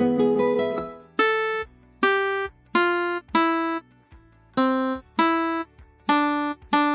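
Electronic piano-like notes from a Topbright children's toy guitar's keys: a quick run of overlapping notes at the start, then single notes pressed one at a time, each with a sharp start and short fade.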